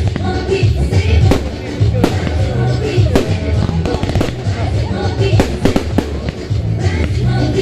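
Fireworks going off in a rapid, irregular string of bangs and crackles over loud music with a heavy bass.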